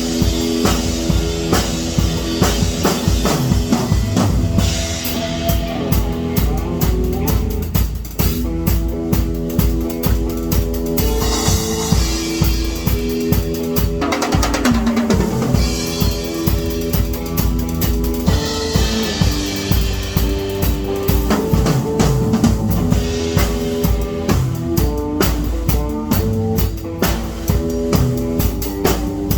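Music with a drum kit keeping a steady beat on bass drum and snare, over held pitched notes from other instruments.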